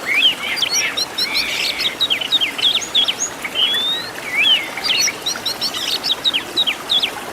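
Oriental magpie-robin (kacer) singing a fast, varied song of short whistled notes and sweeping slurs, one phrase running straight into the next.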